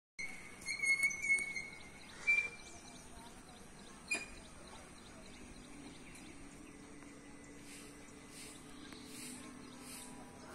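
Birds calling in the open air: a few short, sharp, high whistled calls in the first two or three seconds, then fainter high chirps repeating about twice a second over a faint low steady hum. A single sharp click about four seconds in.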